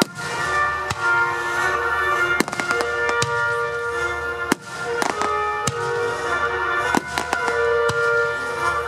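Fireworks bursting with a series of sharp bangs, some close together, over music with long held notes.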